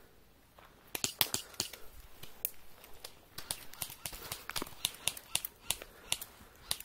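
Footsteps crunching over dry twigs and undergrowth: an irregular run of sharp snaps and clicks, several a second, starting about a second in.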